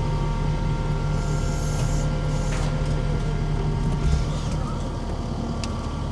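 A heavy truck's engine running steadily at a low, even speed, with a short hiss about a second in.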